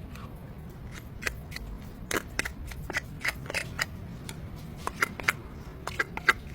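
Irregular sharp clicks and taps, like tools or metal parts being handled, over a low steady hum.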